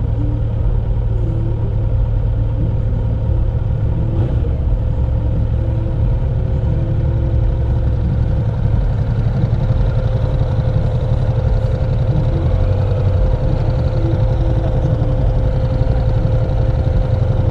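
Kawasaki Z900 SE motorcycle's inline-four engine running steadily, a constant low rumble with a steady hum.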